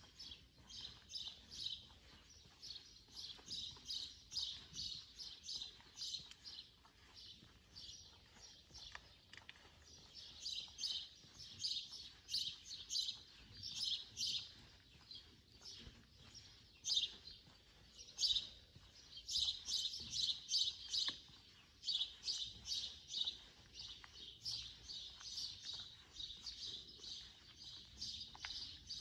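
Small birds chirping: many short, high chirps repeated several times a second, in bouts that carry on almost without a break.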